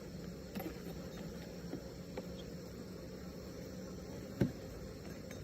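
Honeybee colony humming steadily in an opened hive, with a few light clicks and one sharper knock a little past four seconds in.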